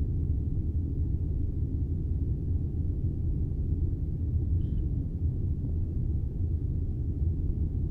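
Steady low rumble of an Airbus airliner in flight, engines and airflow heard from inside the cabin.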